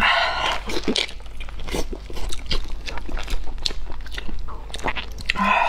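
Close-miked biting into and chewing of a golden fried piece of food, a steady run of small crunches and mouth clicks.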